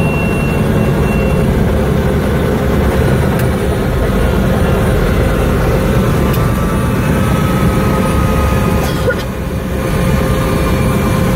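Helicopter engine and rotor noise heard from inside the cabin: a loud, steady rumble that dips slightly for a moment about nine seconds in.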